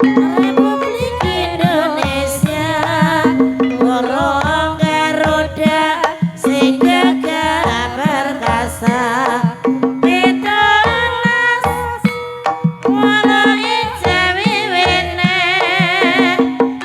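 Javanese Banyumasan gamelan music (gending) for a horse-trance dance: a singer holding long notes with wavering pitch over hand-drum strokes and repeating sustained low metallic tones.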